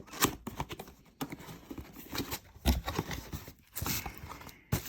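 Irregular knocks, taps and rustles of a boxed mini fridge and its packaging being handled.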